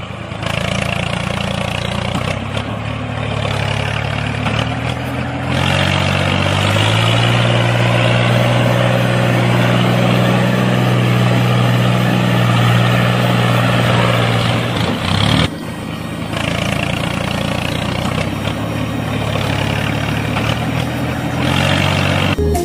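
Small motor of a miniature toy auger rig drilling into sand, running with a steady hum. Its pitch climbs about six seconds in, and it drops out briefly about fifteen seconds in before running on.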